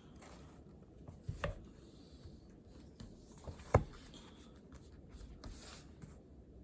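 Small desk-handling sounds during quiet study: a couple of soft knocks about a second and a half in and a sharper knock about three and a half seconds in, with faint rubbing between.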